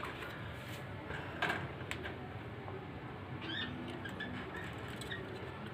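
Budgies chirping faintly, with a few light clicks and one sharper knock about one and a half seconds in.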